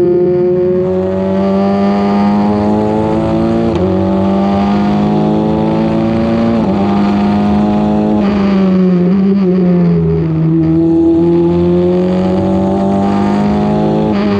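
Formula 4 race car's engine running hard, its pitch climbing steadily and then dropping sharply several times as it changes gear, with one stretch where the pitch sags and recovers.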